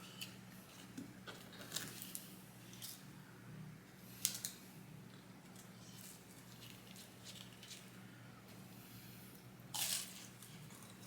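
Close-miked eating sounds: scattered soft chews, smacks and crunches, with a louder burst of noise about ten seconds in, over a steady low hum.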